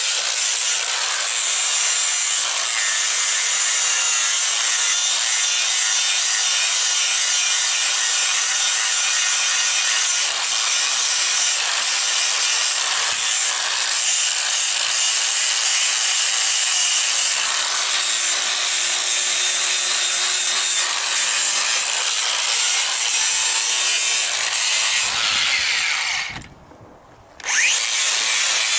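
Power grinder grinding down a horse's hoof wall with a steady, loud rasping. It stops about 26 seconds in and starts up again a second later.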